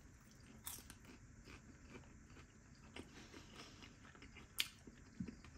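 Faint chewing of a crispy vegetable spring roll, with a few small crunches, the sharpest a little over four and a half seconds in.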